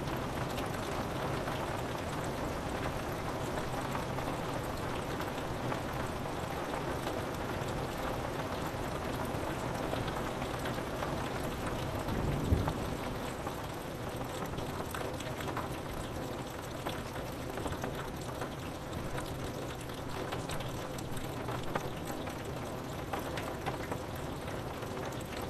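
Steady rain falling on window glass, an even patter, with a short low rumble of thunder about halfway through.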